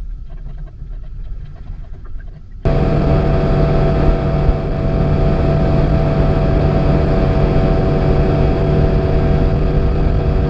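Outboard motor on a small skiff running, quieter and lower at first, then about three seconds in an abrupt change to a loud, steady drone of the motor running at speed across the water.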